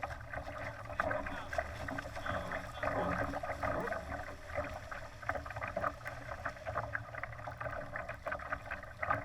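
Water splashing and rushing against the hull of a Laser sailing dinghy under way: a continuous wash full of small, quick splashes, over a steady low rumble.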